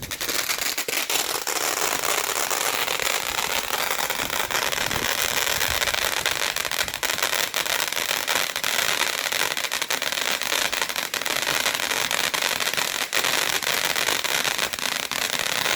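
Firework fountain burning: a steady hiss of spraying sparks, peppered with fine crackles.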